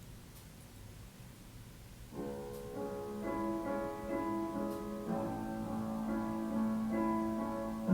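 Piano accompaniment starting about two seconds in, after a quiet stretch, with sustained chords that grow louder toward the end.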